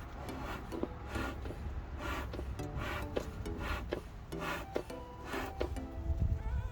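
Wooden beehive parts scraping and rubbing against each other in a series of short strokes, roughly one a second, as frames or the feeder are worked loose in the hive box. Faint background music runs underneath.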